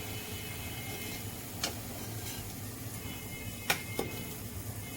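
A few sharp clicks of a metal utensil against the kadhai and plate as fried koftas are lifted out, over a faint steady hiss of frying oil.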